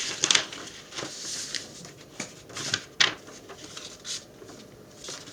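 Sheet of paper being handled: irregular crisp rustles and clicks, sharpest just after the start and about three seconds in.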